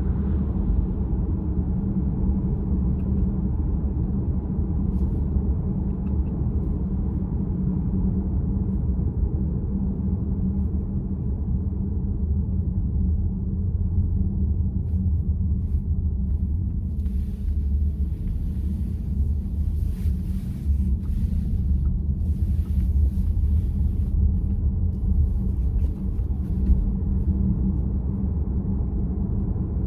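Steady low road and tyre rumble inside the cabin of a moving VW ID.4 electric car, with no engine sound.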